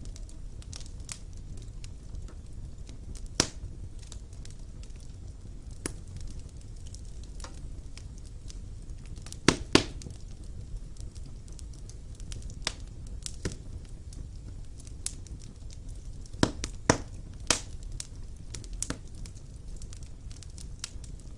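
Wood fire burning in a fireplace: a steady low rumble of the flames with scattered sharp crackles and pops, a few louder pops about halfway through and again near the end.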